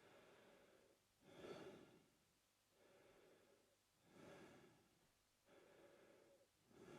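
A man breathing slowly and steadily through his mouth, quiet and even. About three breaths in and out alternate at a regular pace, roughly one cycle every three seconds.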